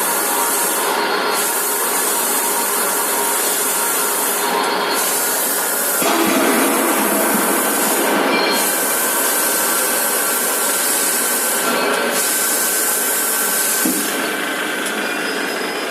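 H-beam CNC drilling machine running: steady machine noise with a few held tones under a loud hiss. The hiss drops out briefly every three to four seconds, and the sound changes about six seconds in and again near the end.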